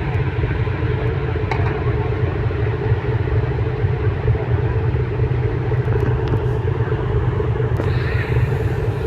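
Ferry's engines running with a steady low hum, heard from inside the ship.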